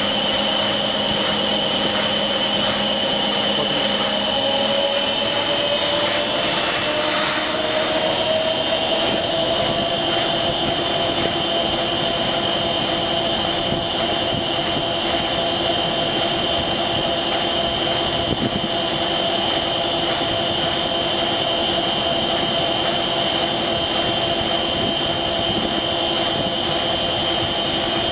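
Heavy machine No. 1 running steadily under load, a continuous whine made of several steady tones, one of which rises in pitch between about two and nine seconds in as the load changes. This is the abnormal noise that appears when it is loaded from 30 to 60%.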